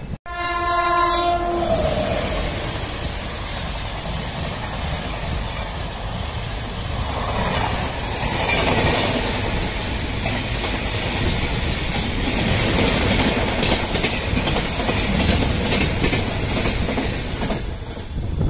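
An Indian Railways locomotive horn sounds once, held for about a second and a half. The express train's coaches then run past at speed, with a continuous rumble and the clickety-clack of wheels over rail joints.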